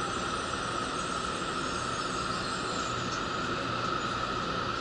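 Steady interior running noise of an N700-series Shinkansen car heard from the door vestibule as the train rolls slowly along the platform: an even hiss with a steady high-pitched hum.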